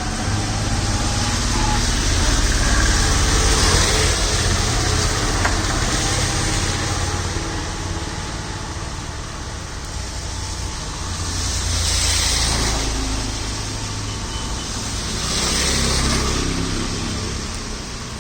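Road traffic on a wet road: engines running with a low rumble under the hiss of tyres on wet tarmac, swelling as vehicles pass, loudest a few seconds in, about twelve seconds in and about sixteen seconds in.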